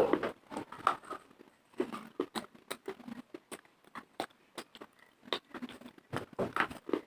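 Close-up chewing and crunching of hard, brittle clay pieces in the mouth, a run of irregular sharp cracks, loudest at the start and again near the end.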